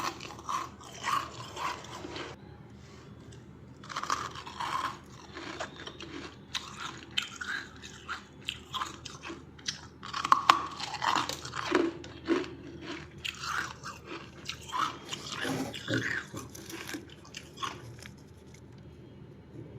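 Close-up crunching of freezer frost being bitten and chewed: bursts of sharp crackling bites with short pauses between them, dying away near the end.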